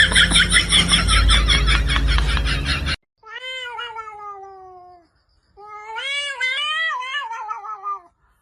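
A cat giving two long, drawn-out meows: the first slides down in pitch, the second wavers up and down. Before them, a loud, rapidly pulsing noise cuts off suddenly about three seconds in.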